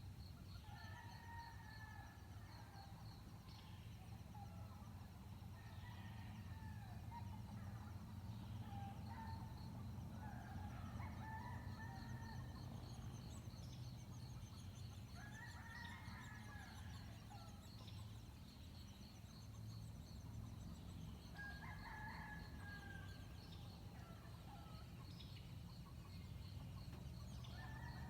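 Birds calling now and then, a call every few seconds, over a steady fast-pulsing insect trill and a faint low rumble.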